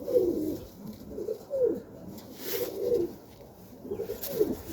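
Domestic pigeons cooing: a run of low, warbling coos, one after another.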